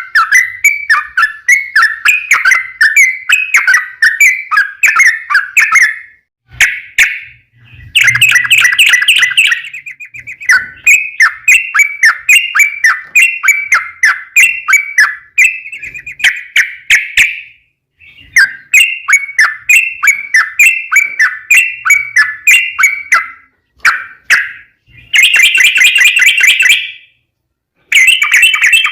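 Yellow-vented bulbul (trucukan) singing a long, fast, chattering song: rapid notes strung into phrases of several seconds, with brief pauses between phrases.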